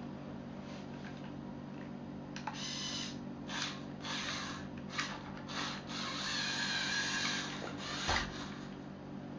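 Lego Technic pneumatic hand pump being worked by hand: a series of short rubbing, airy strokes from about a quarter of the way in, with one longer stroke later, over a steady low hum.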